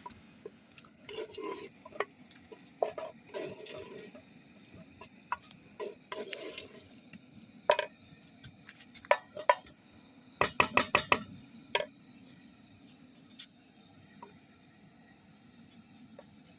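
Kitchen utensils and dishes clinking and knocking: scattered taps and scrapes, then a quick run of about six sharp clicks a little past the middle.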